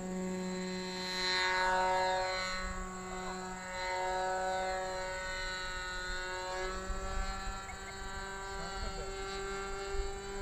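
Propeller motor of a radio-controlled model aircraft built as a flying lawnmower, droning steadily in flight. Its pitch wavers slightly and it swells louder about a second and a half in.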